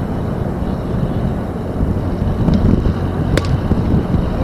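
Wind buffeting the microphone, a steady low rumble, with one sharp knock about three and a half seconds in.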